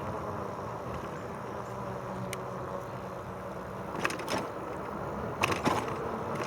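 RadRover 5 fat-tyre e-bike riding along a trail: a steady rolling noise with a faint hum under it. A few sharp clicks and rattles come about four seconds in and again about five and a half seconds in.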